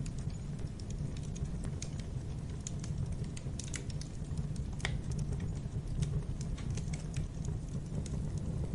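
Wood fire in a fireplace crackling, with frequent small sharp pops over a low, steady rumble of burning and one louder pop about five seconds in.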